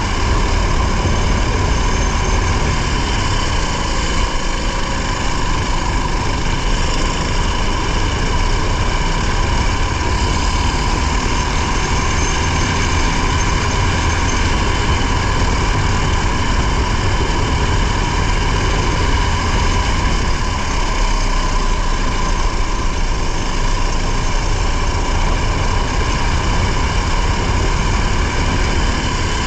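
Rally car's engine and drivetrain running at a steady pitch, heard from inside the cabin, with a heavy low rumble and no revving up or down.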